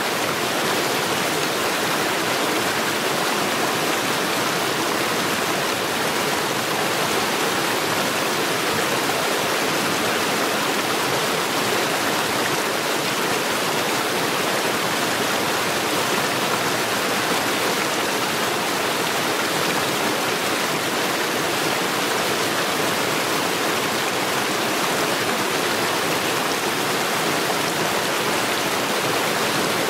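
Stream water rushing over stones, a steady, unbroken rush.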